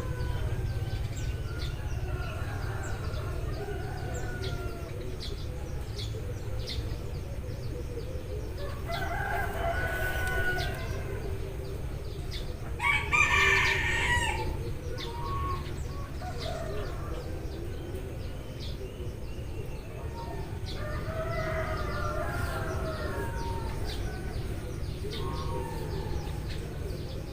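Roosters crowing several times, the loudest crow about 13 seconds in. Eurasian tree sparrows give short chirps throughout, over a steady low rumble.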